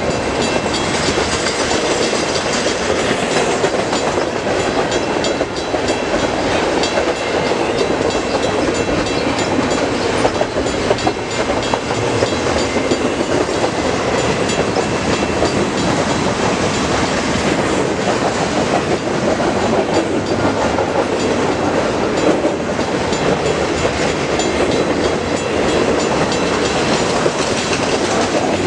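CN intermodal freight train's cars rolling past: steady, loud wheel-on-rail noise with clicking as the wheels cross rail joints.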